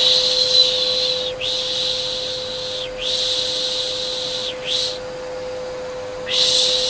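Repeated 'piş piş' shushing, long hissing strokes with a short break about every second and a half, quieter for a moment near the end before swelling again, over the steady hum of an electric vacuum cleaner, used as soothing noise for a baby.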